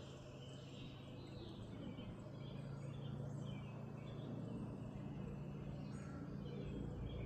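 Faint chirping of small birds, many short calls, over a steady low hum that grows a little louder toward the end.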